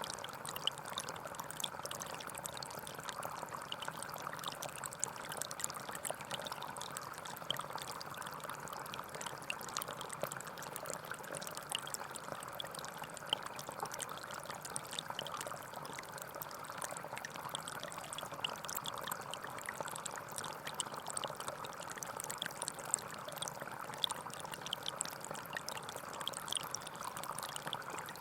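Gentle forest stream flowing steadily, with a continuous burble of water and many small splashes and trickles.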